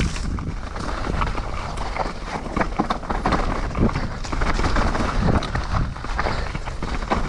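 Mountain bike riding over a rough, wet trail: tyre noise with frequent irregular knocks and rattles from the bike.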